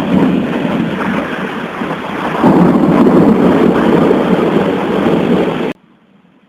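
Thunder rumbling over heavy rain. It grows louder about two and a half seconds in, then cuts off abruptly near the end.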